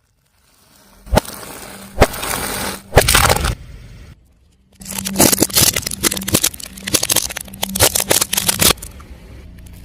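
Brittle objects cracking under a car tyre: three sharp cracks about a second apart, then after a short pause a few seconds of rapid crackling and snapping.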